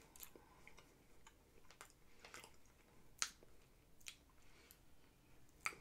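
Faint chewing of a flaky wafer monaka filled with sweet chestnut paste: soft, scattered mouth clicks and crackles, with a sharper click a little after three seconds and another near the end.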